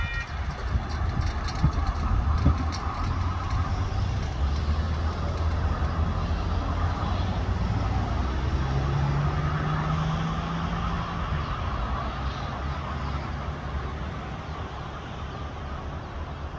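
Amtrak double-deck Superliner passenger train rolling away along the track: a low, steady rumble that slowly fades over the second half as it moves off.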